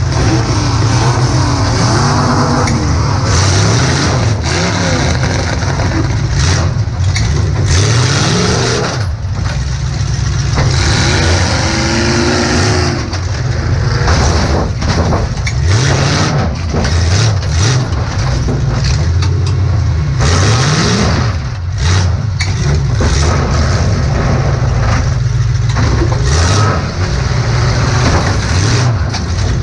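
Demolition derby car heard from inside the cab: its engine revving up and down over and over, with repeated loud bangs of metal impacts as it hits other cars.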